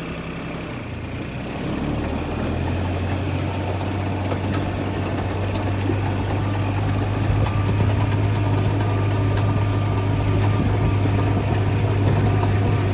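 An engine running steadily at low speed, its low hum getting louder about two seconds in and then holding steady.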